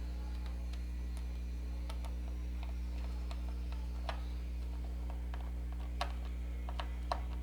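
Irregular small clicks and ticks of a screwdriver driving a small screw into a steam iron's plastic housing, a few sharper clicks about four, six and seven seconds in, over a steady low hum.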